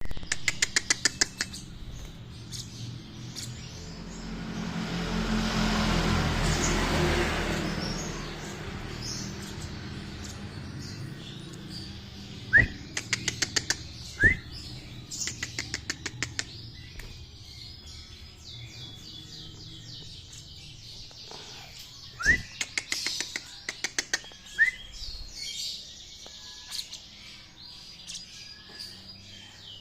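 Young lovebird practising its song: rapid runs of short chirps and chattering, with a few sharp, rising whistled chirps. A rushing noise swells and fades between about four and eight seconds in.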